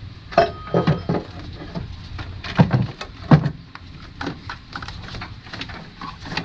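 Scattered knocks and clunks as the engine's timing cover is wiggled and worked loose, the two loudest about two and a half and three and a quarter seconds in.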